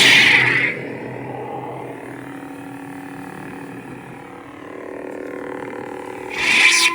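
Custom lightsaber playing Lord Blako's Krayt dragon sound font: a steady blade hum with a loud swing sound right at the start and another near the end.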